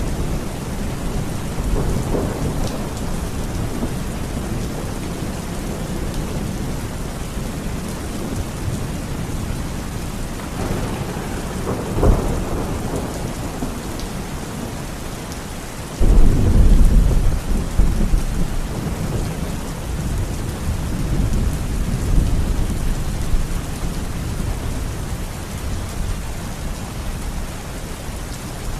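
Heavy rain falling steadily through a thunderstorm. A sharp crack of thunder comes about twelve seconds in, then a loud thunderclap a little past halfway that rolls on as low rumbling for several seconds.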